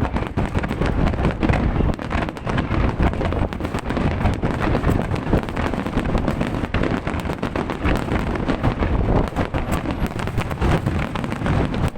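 Fireworks going off in rapid succession, a dense run of pops and crackles over a low rumble, with wind buffeting the microphone.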